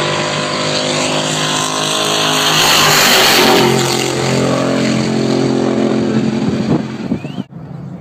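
Performance car engines running hard and revving, with the pitch rising and falling and a loud full-throttle surge about three seconds in; the sound cuts off suddenly near the end.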